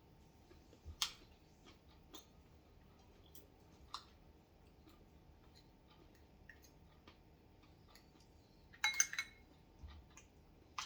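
Spoon and bowl clinking while eating: a few faint, scattered clicks, then a brief ringing clink about nine seconds in.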